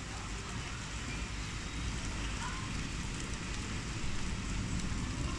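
Heavy rain falling steadily, a continuous hiss with a low rumble underneath.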